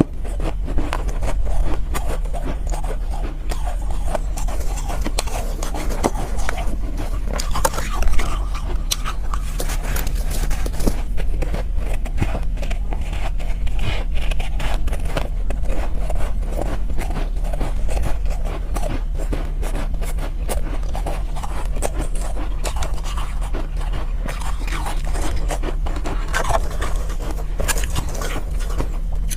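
Soft shaved ice being bitten and crunched close to the microphone: a dense, continuous run of small crunches and crackles over a steady low hum.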